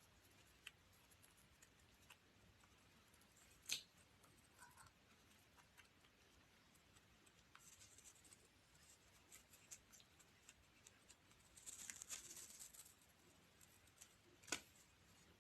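Faint scratching and rustling of a baby parrot preening its feathers with its beak, with scattered small ticks and two sharp clicks, one about a third of the way in and one near the end.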